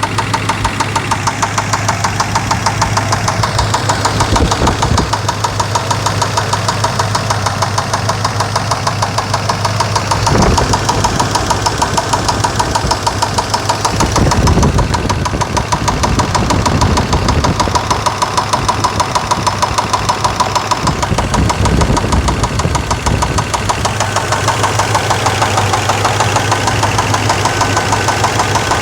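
Chevrolet Suburban's 5.7-litre V8 idling with a rapid, regular knocking or ticking. The truck has just been started after sitting unused for a few months, and the noise began a few seconds after start-up.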